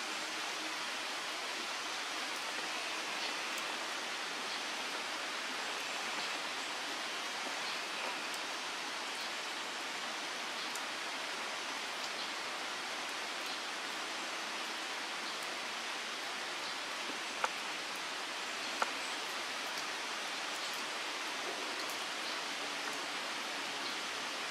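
Steady rain falling on a pond and the grass around it, an even hiss. Two short taps, about a second apart, come a little past two-thirds of the way through.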